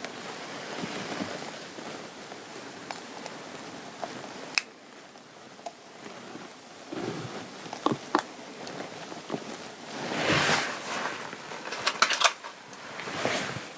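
Fabric and clothing being handled: intermittent rustling swells with scattered small sharp clicks, a louder rustle about ten seconds in.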